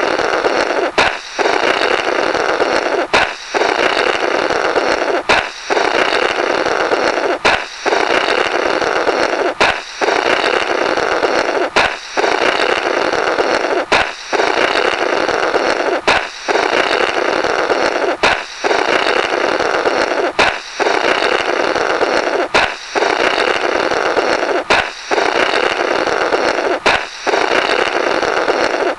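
Comedy balloon sound effect on a loop: a sharp pop followed by breathy, sputtering blowing through the burst balloon's remnants, a 'blorrrt'. It repeats about every two seconds, each pass starting with a brief gap and a crack.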